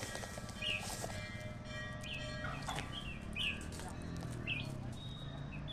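Birds chirping: short, quick calls repeated about every second, over a steady low hum.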